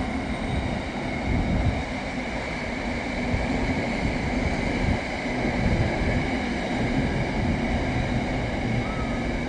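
A Class 66-hauled freight train rolling past: a steady rumble of wagon wheels on the rails with a steady hum.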